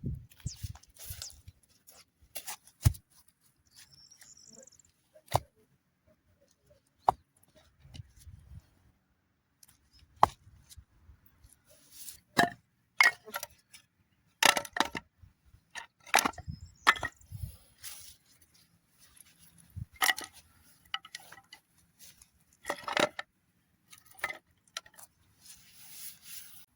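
Cooking utensils and dishes being handled: a series of separate sharp clinks and knocks at irregular intervals, sparser at first and coming more often in the second half.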